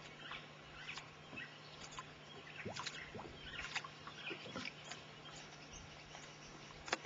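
Faint, scattered short chirps and clicks from small birds, irregularly spaced, over a steady low hum.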